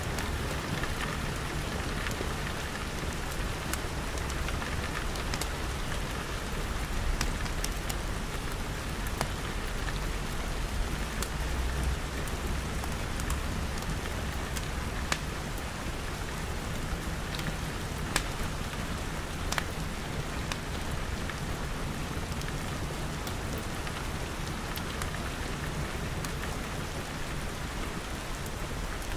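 Steady rain pattering on glass walls and roof, with scattered sharp pops throughout and a low rumble that swells about ten seconds in.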